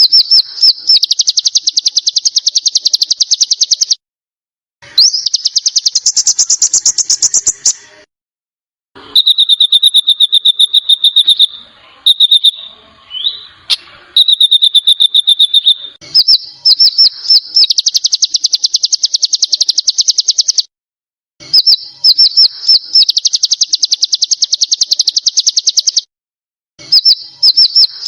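Small songbirds singing a masteran (training) song. It is mostly rapid, buzzy 'besetan' trills in phrases of three to four seconds with short pauses between them. In the middle comes a run of fast repeated clear, high whistled notes.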